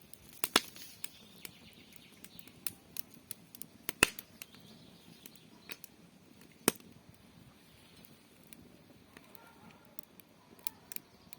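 Birch firewood burning and crackling, with irregular sharp pops; the three loudest come about half a second in, at about four seconds and near seven seconds. Birds chirp faintly in the background.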